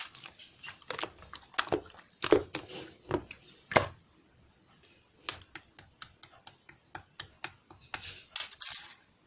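Irregular clicks and taps, denser in the first few seconds and sparser after, with a short rustle near the end.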